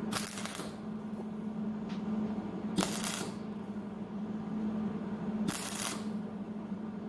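Welder laying short tack welds on sheet-metal body panel patches: three brief crackling bursts of about half a second each, evenly spaced about every two and a half seconds, over a steady electrical hum.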